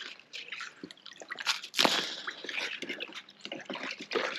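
Broken ice and slushy water sloshing and crunching, a run of irregular short crunches and splashes.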